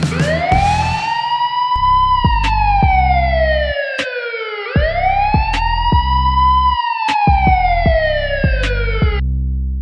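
Police siren wailing in two long cycles, each rising quickly and then falling slowly, over background music with a steady bass beat; it cuts off shortly before the end.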